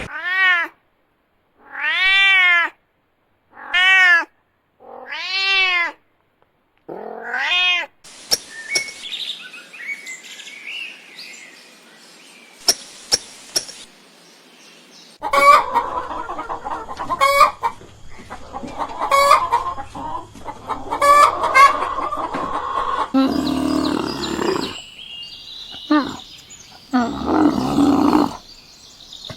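A run of animal calls. First come five drawn-out, arched, meow-like calls about two seconds apart. After a quieter, noisy stretch, a series of short, sharp chicken-like clucks and calls repeats about every two seconds.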